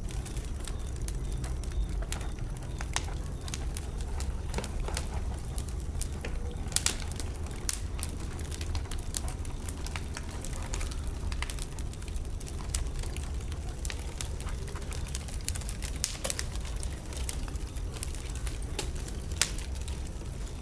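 Wood bonfire burning, crackling with frequent irregular sharp pops over a steady low rumble; a couple of louder pops come about a third of the way in.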